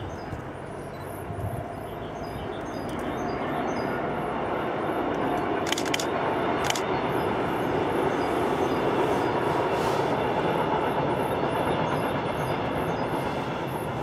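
Double-deck regional passenger train running over a viaduct. Its running noise grows louder over the first several seconds and then holds steady as the coaches pass.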